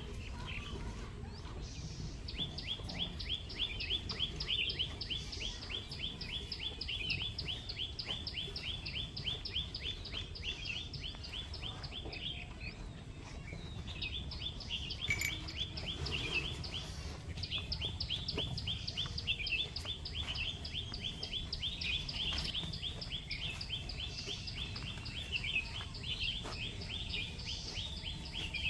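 Birds chirping in fast, even runs of high notes, with short breaks about thirteen and seventeen seconds in, over a steady low rumble of outdoor noise.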